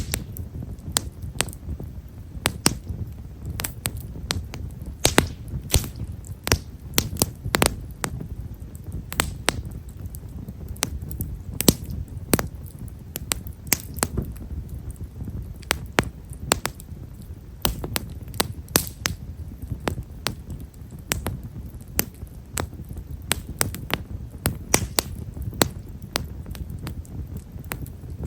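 Campfire of himeshara (Japanese stewartia) firewood crackling: many small, sharp pops several a second at irregular intervals, over a steady low rush of the flames.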